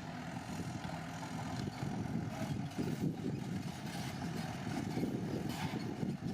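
Bulldozer's diesel engine running steadily, with a few brief clanks over the engine noise.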